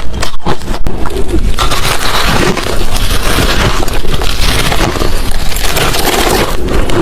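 Loud crunching of hard crushed ice and shaved ice chunks being chewed: quick separate crunches for about the first second and a half, then dense, almost continuous crunching.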